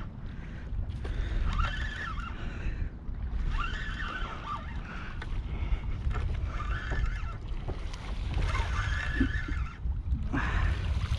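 Wind rumbling on the microphone. Short higher-pitched sounds recur over it every couple of seconds.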